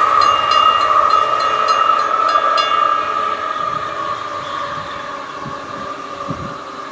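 Train rolling past on the rails, with a steady high-pitched tone over the rumble and a few light clicks in the first couple of seconds, slowly fading as it moves away.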